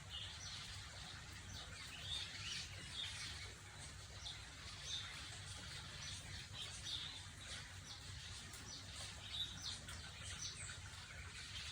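Small birds chirping faintly, short high chirps every second or so, over a low steady hum.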